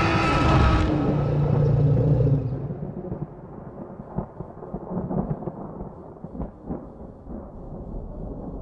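Loud, deep thunder-like rumble that grows muffled and drops in level about two and a half seconds in. A quieter low rumble with scattered short thuds follows.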